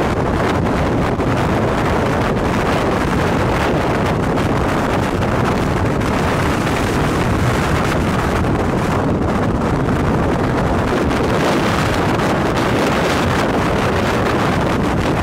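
Strong wind blowing hard across the microphone: a loud, steady rush of wind noise with no break.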